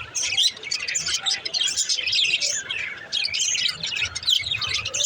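Budgerigars chattering and warbling, a dense run of quick high chirps and trills with no pause.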